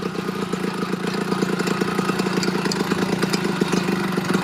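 Motorized bicycle's small engine idling with a fast, even beat, then cut off right at the end.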